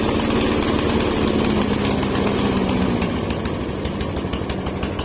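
Snapper push lawn mower's small engine running, now repaired of its misfiring and hard starting. A steady hum in the sound fades out about three seconds in, while the engine's even pulse carries on.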